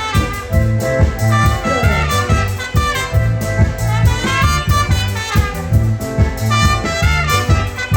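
Live band playing an instrumental passage: a steady bass and drum beat under a sustained melodic lead line.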